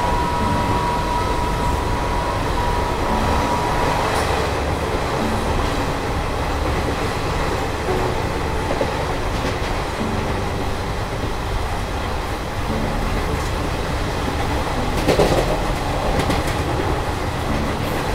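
Express passenger train running at speed, heard from an open coach doorway: a steady rumble of wheels on the rails. A high steady tone sounds for about the first four seconds, and a short burst of clatter comes about three quarters of the way through.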